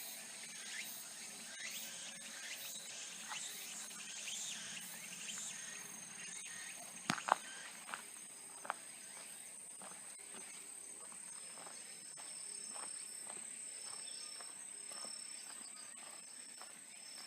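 Insects singing in a steady, high-pitched drone, with a second, fainter broken trill in the second half. Scattered small clicks run through it, and a couple of sharp cracks come about seven seconds in.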